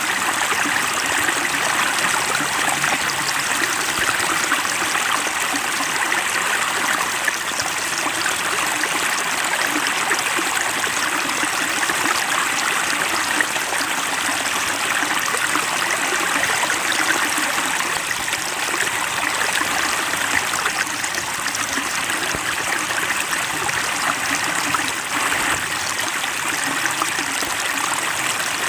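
Steady rushing and trickling of running water, like a stream or small waterfall, holding an even level throughout.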